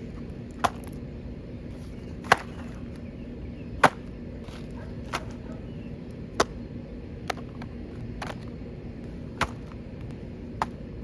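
A series of sharp clicks or snaps, about one every second or so and some louder than others, over a steady low hum.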